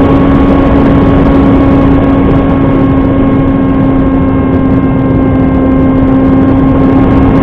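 Electric RC model plane's brushless motor and propeller running at a steady pitch, with a dense rush of air noise under it.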